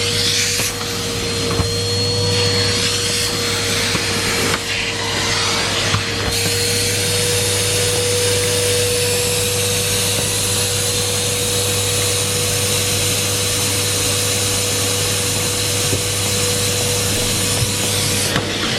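Numatic Henry Pet cylinder vacuum cleaner running steadily: a constant whine over a loud rushing suction hiss. The hiss changes a few times in the first several seconds, then stays even.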